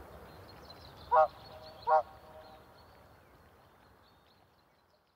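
A bird gives two short, loud calls about a second apart over a faint outdoor background, which fades away to nothing near the end.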